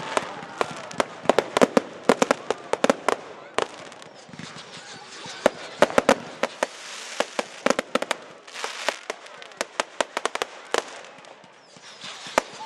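Category 2 and 3 display fireworks firing and bursting in the air: many sharp bangs and crackles in quick, irregular succession, thinning to a brief lull near the end.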